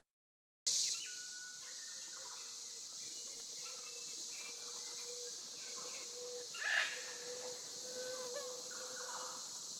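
Insects droning with a steady high hiss, a faint steady humming tone beneath, and scattered short bird calls, one louder call about seven seconds in.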